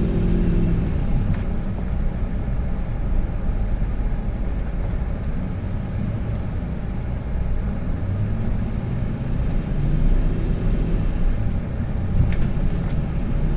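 A motor vehicle's engine running with a steady low rumble. A few engine tones stand out in the first second, then fade.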